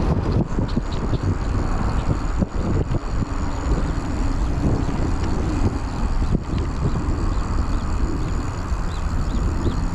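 Raleigh Trailblazer T6 hardtail mountain bike riding over an off-road trail: tyres rolling and the bike rattling with constant small knocks. A faint high chirping repeats about twice a second near the end.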